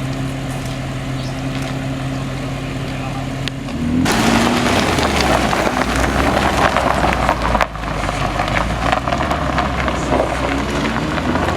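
Audi RS7's twin-turbo V8 idling, then brought up to full throttle at about four seconds and held loud, with a brief dip near eight seconds.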